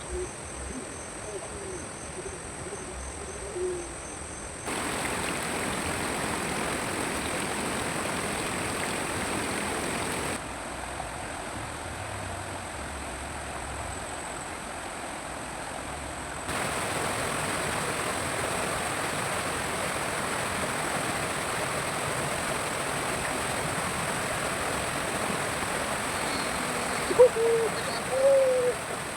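Steady rushing of flowing stream water. Its level jumps up and down abruptly a few times.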